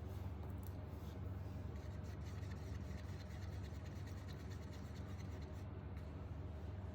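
Faint light scraping and rubbing of a stick stirring silicone into acrylic pouring paint in a cup, over a steady low hum.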